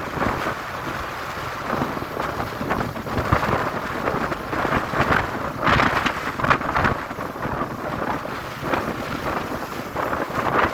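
Gusty storm wind at the start of a storm, buffeting the microphone in uneven surges.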